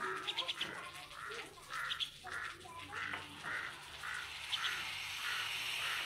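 Birds calling: a rapid run of short, repeated calls, about two or three a second, with a few sharper, higher notes among them.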